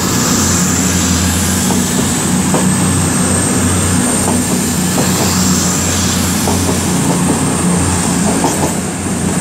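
Four-car CrossCountry Voyager diesel multiple unit pulling out of the station, its diesel engines running with a steady drone, a thin high whine that rises slowly in pitch, and a few light clicks.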